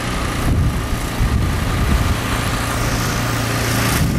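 A vehicle engine running steadily: a low, even hum under a wash of noise.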